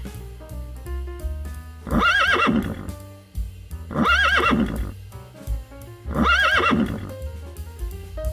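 Zebra barking: three repeated, horse-like braying calls about two seconds apart, over background music.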